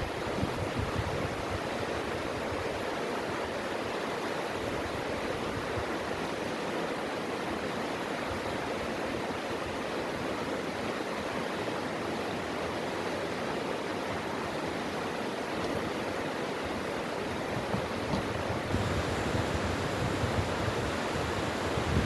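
Mountain valley stream flowing, a steady unbroken rush of water. Low wind rumble on the microphone at the start and again near the end.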